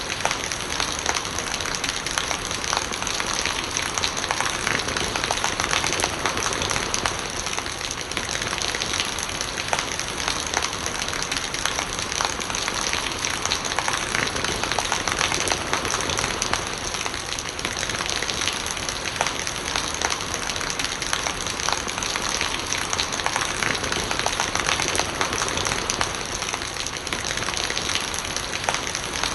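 Steady rain falling, with a dense patter of raindrops and gurgling rainwater.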